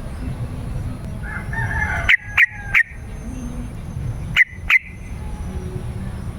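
Yellow-vented bulbul (trucukan) singing: a short warbling phrase, then three loud, sharp notes in quick succession about two seconds in and two more about two seconds later, over a low steady background hum.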